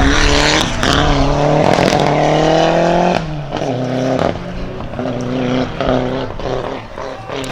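Race car engine at full throttle on a hill climb, its note rising steadily for about three seconds. The note then drops suddenly and the engine comes in several short bursts with brief gaps between them.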